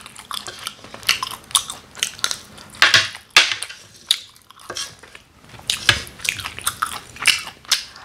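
Close-miked chewing of a mouthful of bibimbap, along with an orange plastic spoon scraping and gathering rice across a plate, in many short irregular strokes.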